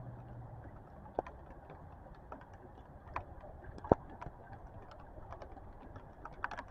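Raindrops tapping irregularly, many small scattered ticks, with sharper knocks about a second in and just before four seconds.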